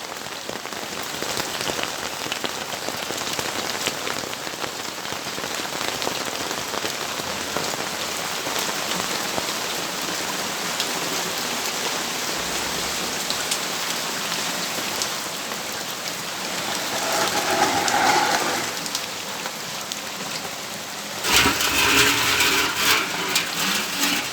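Steady rainfall with many separate drops pattering on hard surfaces. A louder swell rises and falls about three-quarters of the way in, and a louder, rougher stretch with a low hum in it takes over for the last few seconds.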